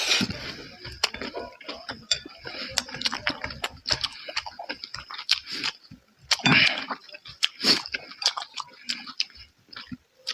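Close-up eating sounds: chewing and slurping with many small wet clicks of the mouth, and a brief louder slurp about six and a half seconds in.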